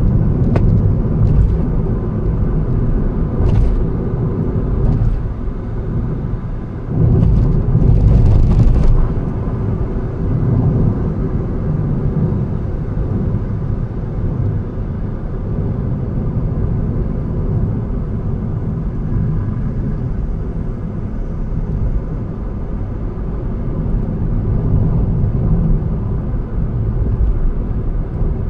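A car driving on the road, with a steady low rumble of engine and tyre noise. A few short knocks come in the first few seconds, and there is a louder, rougher stretch about seven to nine seconds in.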